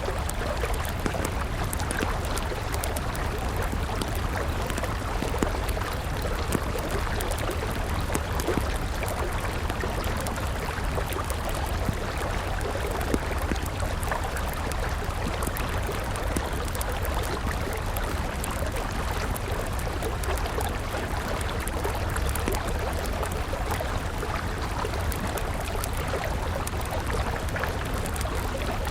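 A river flowing steadily, with a wood campfire crackling over it in many small, sharp pops.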